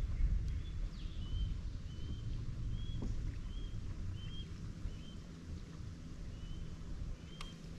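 A bird repeats a short, high chirp about every half second over a steady low rumble of wind on the microphone.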